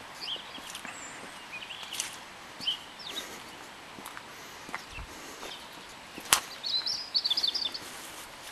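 Small songbirds chirping and calling over a steady outdoor hiss, with a single sharp click a little after 6 seconds in and a quick rattling run of high notes just after it.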